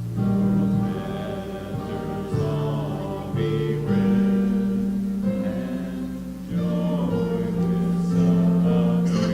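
A hymn sung by a group of voices, with held instrumental notes underneath that change every second or two.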